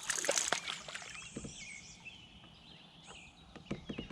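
Water sloshing and trickling around a kayak, with scattered light knocks and clicks against the hull, most of them in the first second, and faint wavering high chirps in the middle.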